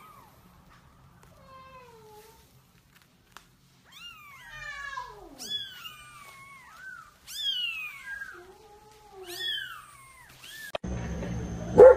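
Newborn kittens mewing: a string of thin, high cries, most sliding down in pitch, several overlapping. About a second before the end the mewing gives way to a louder, noisy background with one sudden loud sound.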